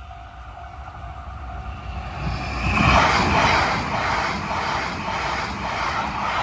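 A train passing close by, rising sharply about two seconds in and then running loud with a regular clatter of wheels over the rails, about two beats a second.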